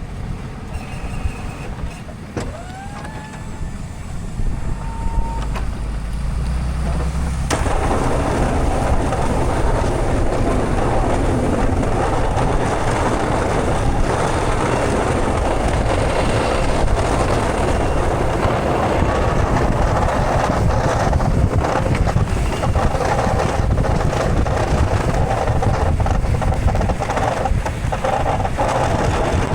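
A vehicle running, with a steady rush of engine, road and wind noise that jumps up sharply about seven and a half seconds in and then holds.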